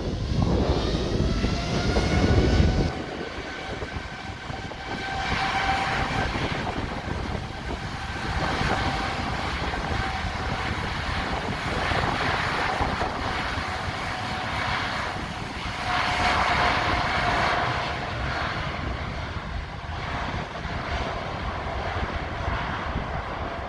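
Boeing 747 jet engines whining with a steady high tone that rises slightly at first, then holds, swelling and fading in loudness. A heavy low rumble accompanies it and stops suddenly about three seconds in.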